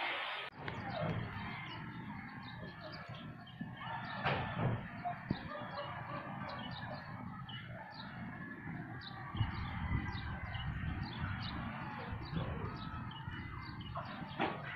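Chickens calling, with many short, high chirps repeating throughout.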